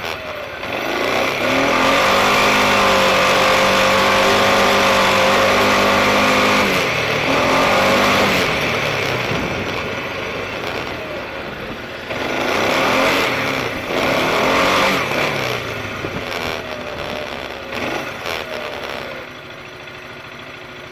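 Suzuki KingQuad ATV engine under way, revving up to a steady pitch, holding it for several seconds, easing off, then rising and falling again, with wind rush over the microphone.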